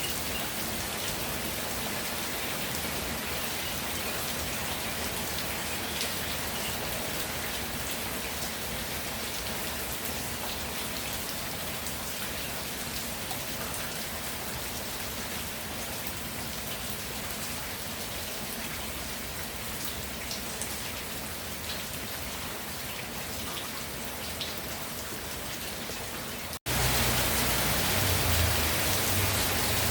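Steady rainfall, an even hiss of drops hitting the ground. About 27 seconds in it cuts out for a split second, then comes back louder and deeper.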